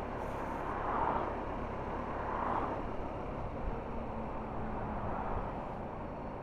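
A car running, a steady rumble of engine and tyre noise with gentle swells.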